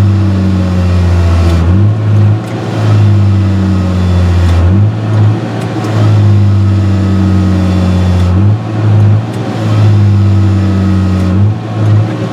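John Deere 6068 six-cylinder diesel engine of a forestry harvester running loud and steady at speed. Every few seconds its pitch briefly shifts and swings back as the load on it changes.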